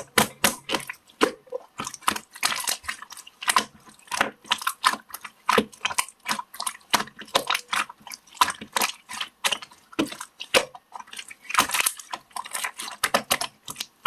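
Slime being squeezed, poked and folded by hand, giving a continuous run of irregular wet clicks, pops and squelches.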